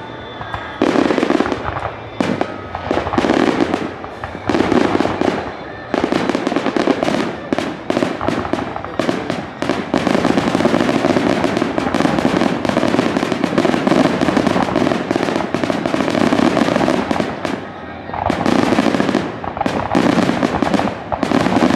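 Aerial fireworks display: a rapid barrage of bangs and crackling, in short clusters at first, then almost unbroken for about twelve seconds, dipping briefly near the end before starting up again.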